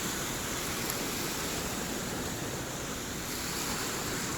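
Lake Michigan waves washing ashore in a steady rush of surf, with some wind.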